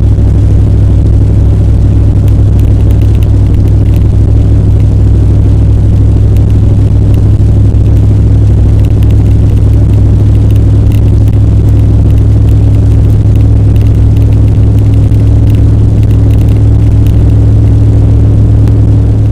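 Car driving along the road: a loud, steady low engine and road drone with no change in speed.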